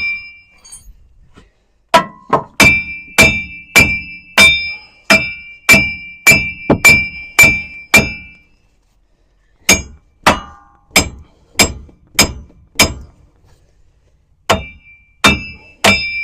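Hammer blows on the steel front hub and wheel bearing assembly of a Ram 2500 4x4, knocking it loose from the steering knuckle once its bolts and axle nut are out. Each strike rings metallically, about two a second, in three runs with short pauses between.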